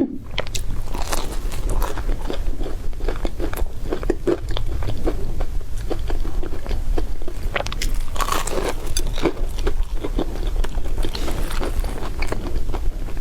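Close-miked biting and chewing of crispy bread: a dense, continuous run of sharp crunches and crackles.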